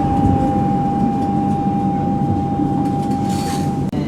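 Tram running between stops: a steady low rumble of wheels and running gear, with a thin steady high tone that stops near the end, where the sound briefly drops out.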